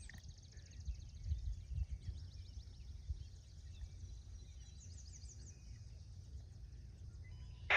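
Quiet outdoor ambience: an uneven low rumble with faint, high bird chirps in short runs.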